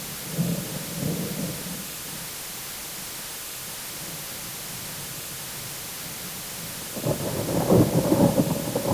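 Thunderstorm: steady rain hiss with a rumble of thunder dying away at the start. A loud, crackling peal of thunder breaks in sharply about seven seconds in.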